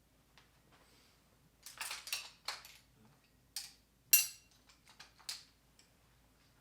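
Metal hand tools clinking and clanking as they are handled and set down, in a string of separate knocks; the loudest, a bit past the middle, rings briefly like metal on metal.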